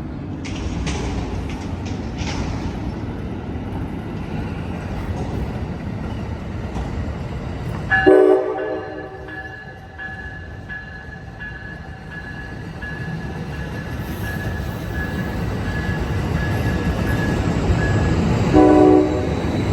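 Amtrak Capitol Corridor passenger train rumbling through the station. About eight seconds in its horn gives one short, loud blast, and near the end it gives another. Between the blasts a high ringing tone repeats steadily, like a bell.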